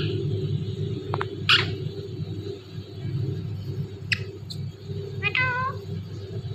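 Indian ringneck parrot giving short calls between its words: a loud screech sweeping down in pitch about a second and a half in, a quick chirp near four seconds, and a short whistled call with a falling tail about five seconds in. A steady low hum runs underneath.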